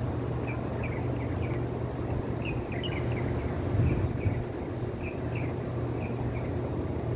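A small bird chirping in short, high notes, scattered singly and in little clusters, over a steady low rumble.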